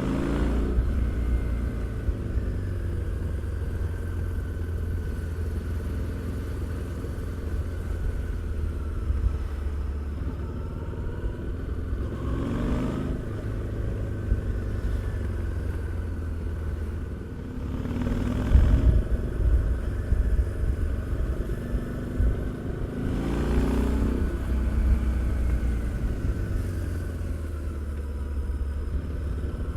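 Harley-Davidson Street 750's liquid-cooled V-twin engine and exhaust under way: a steady low rumble, with the revs rising and falling about five times. The loudest stretch comes about two-thirds of the way through.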